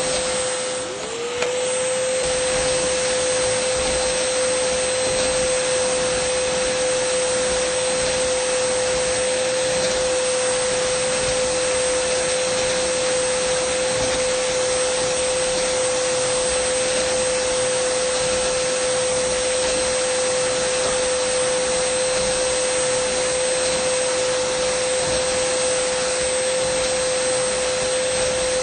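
Dyson vacuum cleaner motor running steadily, a constant whine over an even rushing hiss. About a second in, the pitch dips briefly and climbs straight back.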